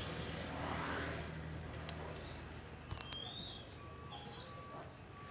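Scarlet minivet giving a few faint, thin, high chirps, some sliding up or down in pitch, about two to four seconds in, after a brief rush of noise at the start.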